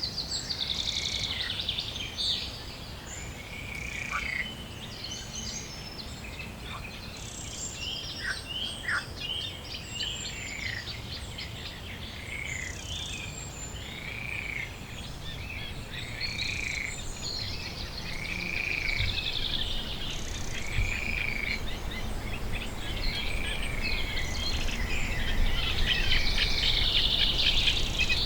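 Wild birds singing and calling. One short arching note repeats about every second and a half over busier trills and chirps, with a low steady rumble beneath. The birdsong grows louder near the end.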